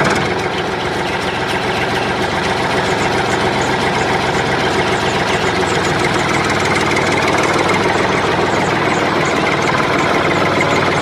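Engine idling steadily with a fast, even pulse.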